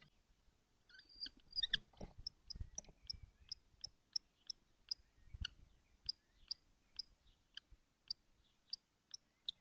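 A kestrel calling in a steady series of short, high peeps, about two or three a second, with a few low thumps or rustles about two and five seconds in.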